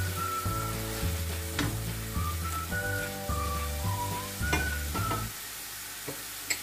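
Curry sizzling in a pan while a spatula stirs it, with a few sharp scrapes and clicks of the spatula against the pan. Background music with a bass line and a simple melody plays over it and stops about five seconds in.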